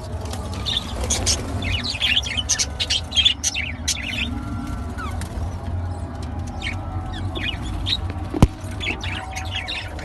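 A flock of budgerigars chirping and chattering continuously in many short, overlapping calls, over a steady low hum. A single sharp click about eight and a half seconds in.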